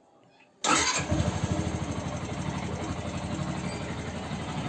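Yamaha R15 V2's 150 cc single-cylinder four-stroke engine starting up about half a second in and settling straight into a steady idle, its first run on fresh engine oil after an oil and filter change.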